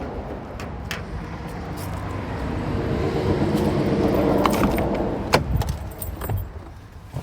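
A bunch of keys jangling in a hand, with sharp clicks now and then, over the rumble of a vehicle passing that swells around the middle and then fades.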